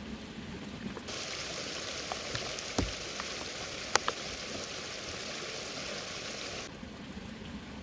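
Heavy rain hissing steadily. A louder, higher hiss cuts in about a second in and stops abruptly near the end, with a few sharp pops in between.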